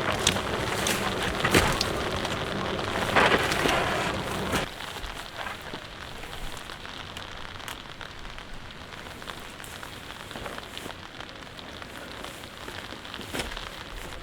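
Light rain falling on a tarp shelter and surrounding grass. It is louder for the first four or five seconds, with a few sharp knocks, then drops suddenly to a steady, quieter patter with scattered single drops.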